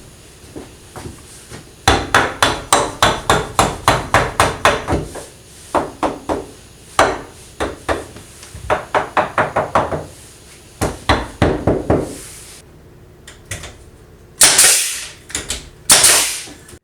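Hammer driving nails into wooden 2x4 window framing: fast runs of sharp blows, about five a second, broken by short pauses. Near the end come two longer, louder noisy sounds.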